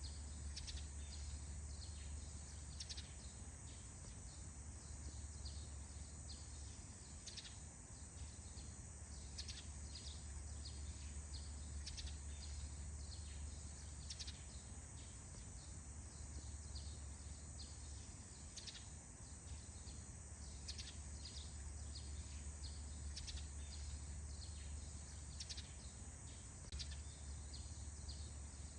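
Faint forest dawn ambience: small birds chirping in short scattered calls over a steady high insect drone. A low rumble runs underneath and drops out a few times.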